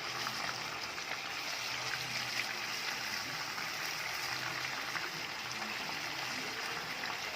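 Chicken pieces frying in mustard oil in a kadai over medium-low heat, a steady sizzling.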